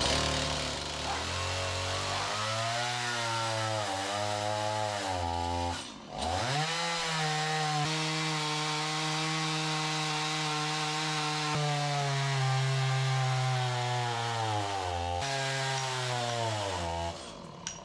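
Stihl chainsaw cutting into an oak round under load, its engine pitch dipping sharply about six seconds in and picking back up, then holding steady until it drops off near the end. The chain is sharp and cuts easily, "like butter".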